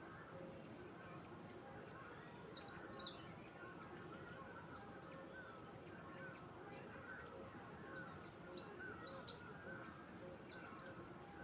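Birdsong: a small songbird singing short, rapid, high-pitched twittering phrases, four of them a few seconds apart, over fainter chirping from other birds.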